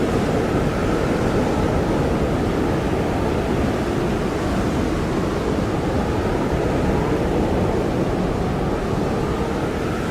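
Blizzard wind blowing steadily: a dense, low rushing with a faint wavering howl above it.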